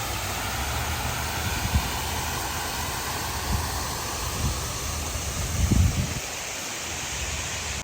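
Steady rushing noise outdoors, with a few short low thumps, the loudest a little under six seconds in; it cuts off suddenly at the end.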